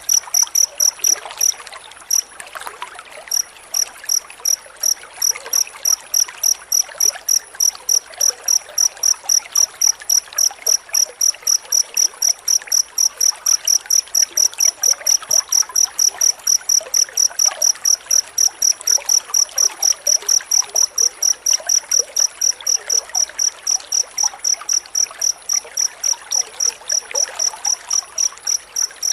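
A cricket chirping in a fast, dense, even rhythm, about three short high-pitched chirps a second. There is a brief pause near the start.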